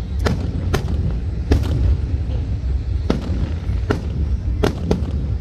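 Fireworks going off: about eight sharp bangs at irregular intervals, some in quick pairs, over a steady low rumble.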